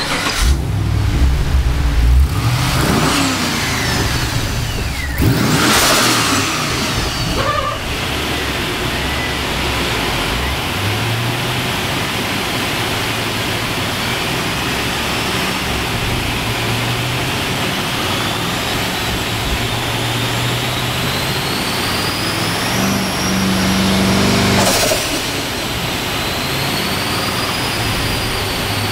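Twin-turbocharged Holden VE SSV V8 running hard under acceleration, its revs rising through several pulls. A high turbo whine climbs with the revs, and it is broken by a few short whooshes as the throttle comes off between pulls.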